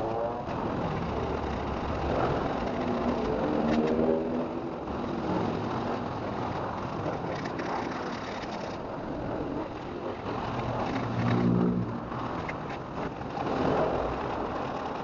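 Motor vehicle engines revving up a few times, each rising in pitch briefly, over a steady background of noise.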